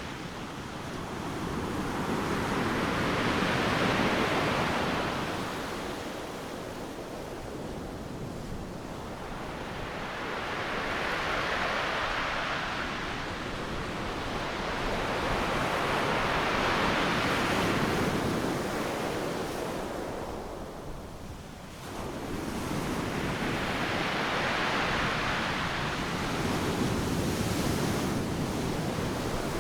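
Ocean surf breaking on a sandy beach: a continuous rushing wash that swells and fades as each wave breaks, about every six to seven seconds. There is a brief lull about three quarters of the way through before the next wave surges in.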